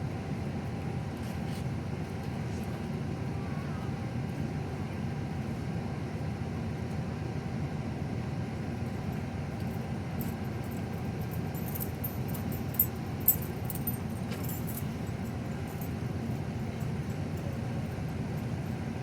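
Amtrak passenger train standing at the platform, its diesel locomotive idling with a steady low rumble and a faint steady hum. Two sharp clicks are heard about thirteen seconds in.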